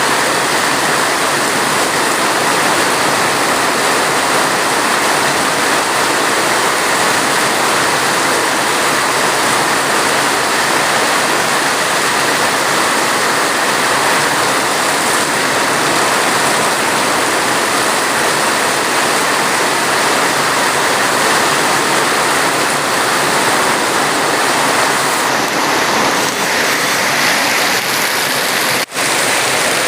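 Steady, heavy rain making a dense, even hiss. Near the end the sound briefly drops out for an instant.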